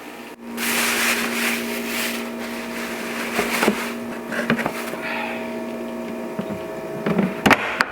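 Items being packed into a small fridge: rustling and a few light knocks. Under them runs a steady electric hum of a few fixed tones, the lowest of which stops near the end.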